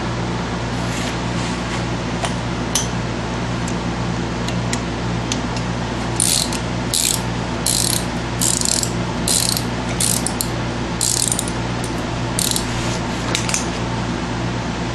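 Hand ratchet clicking in a run of short, quick strokes, with a few lighter clicks before it, over a steady low hum.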